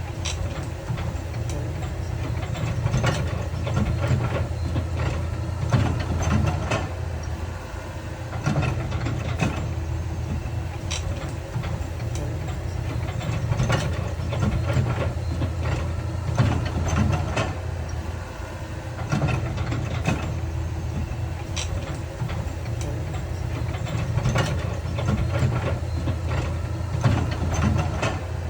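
Heavy construction machinery at work: a diesel engine running steadily, with frequent sharp clanks and knocks of rock and metal throughout.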